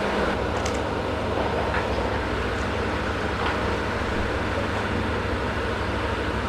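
Steady engine rumble of heavy machinery and traffic, with a few faint clinks.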